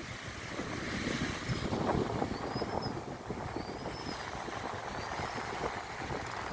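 Wind buffeting the microphone as a steady, gusty rumble, with a faint high chirp repeating about once a second.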